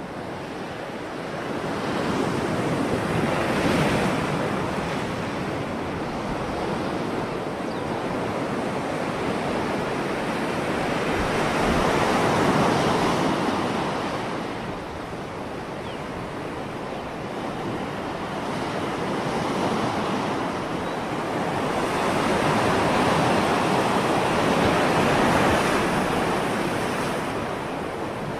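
Ocean surf: waves breaking and washing ashore in a steady rush that swells and eases every several seconds.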